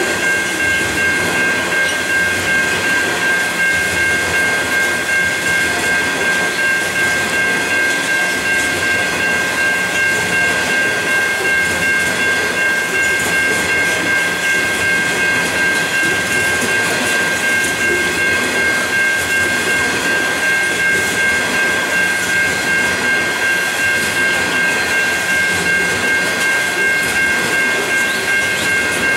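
Coal train of hopper wagons rolling past at speed: a continuous rushing rumble of wheels on rail with a small regular pulse. A steady high-pitched ringing tone stands out over it.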